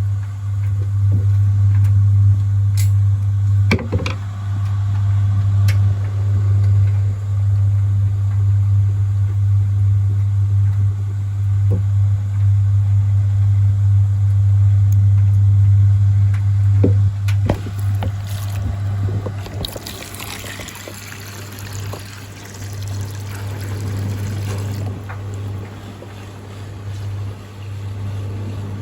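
Small water pump humming steadily, with a few light knocks and water trickling for several seconds about two-thirds of the way through.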